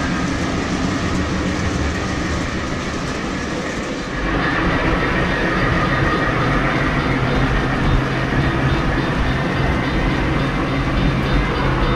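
Model train running on the layout's track: a steady rolling rumble with faint wheel clatter. It grows louder about four seconds in.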